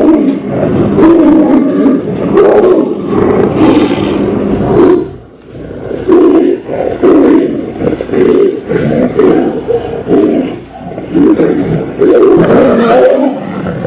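Tiger roaring in a long series of loud, rough, deep roars, with a short break about five seconds in.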